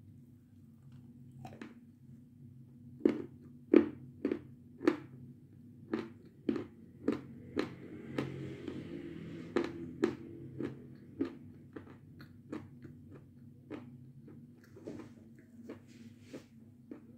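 Close-up crunching and chewing of a brittle white piece of Seversky chalk: irregular sharp crunches, a few a second, loudest a few seconds in and thinning out later, over a low steady hum.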